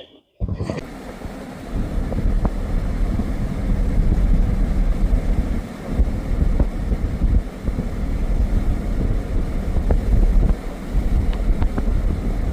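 Loud, uneven low rumbling noise that cuts in suddenly about half a second in, with a few faint clicks over it.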